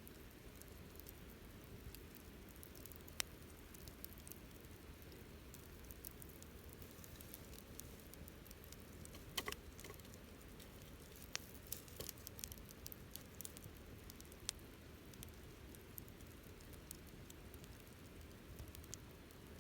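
Wood campfire crackling softly, with scattered sharp pops over a low steady rumble; the loudest pops come about three seconds in and around nine and a half seconds, with a cluster a few seconds later.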